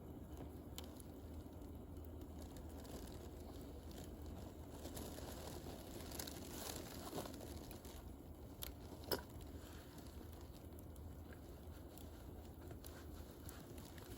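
Wood campfire burning with soft, continuous crackling and scattered sharp pops, the loudest about nine seconds in.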